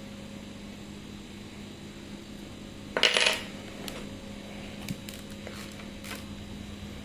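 A small metal object clatters briefly onto a hard surface about three seconds in, followed by a few light clicks over a steady low hum.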